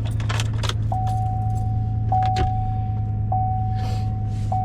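Pickup truck engine idling steadily, heard from inside the cab. Clicks and rustling come in the first second. From about a second in, a single-tone warning chime sounds, re-striking about every second and a quarter.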